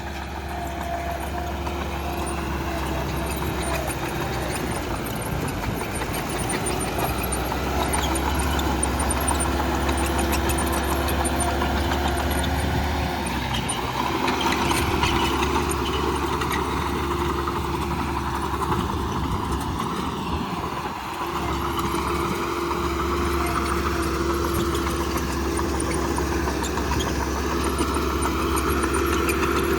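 Heavy diesel engine of a bulldozer working, running steadily with its note shifting up and down as the load changes, and a brief drop about two-thirds of the way through.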